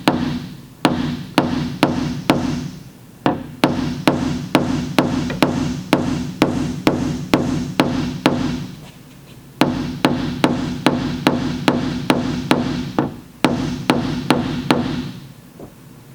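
Body hammer with a plastic puck tapping down the buckle in a steel liftgate panel held under tension by a bridge lifter. Steady taps, about two to three a second, in runs with short pauses, each leaving a low ringing in the metal.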